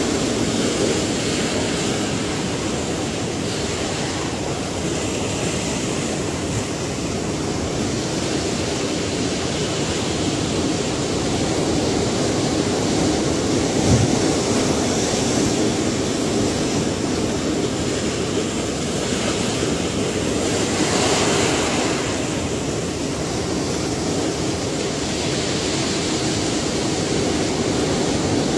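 Ocean waves breaking and washing on a shore, a steady rushing noise that swells and ebbs every several seconds, with a short low thump about halfway through.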